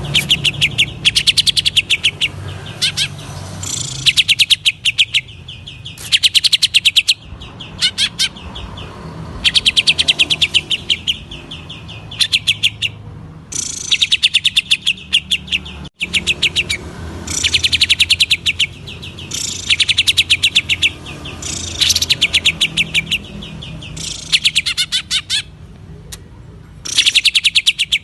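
Greater green leafbird (cucak ijo) singing in repeated bursts of very rapid, rattling notes. Each burst lasts about a second, with short pauses between them, in the 'ngentrok' style of song.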